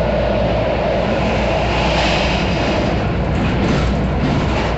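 Miami-Dade Metrorail train running, heard from inside the passenger car: a steady, loud rolling rumble of the train on its track.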